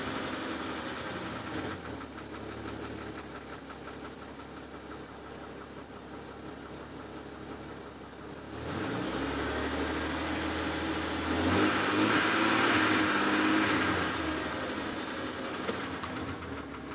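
Jeep engine, which has a bad lifter, idling steadily, heard from inside the cabin. About halfway through the engine note steps up and grows louder for a few seconds, then eases back.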